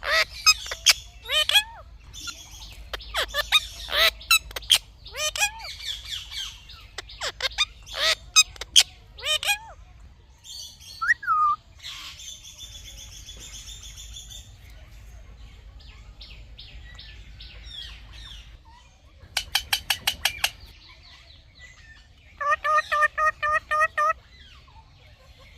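Indian ringneck parrot calling: a fast run of sharp chirps and squawks for the first ten seconds or so, then softer chatter. Two quick bursts of rapidly repeated call notes follow in the second half.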